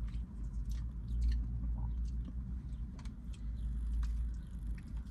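A person chewing a meal of chicken wings and catfish, with wet mouth sounds and scattered sharp clicks over a steady low rumble.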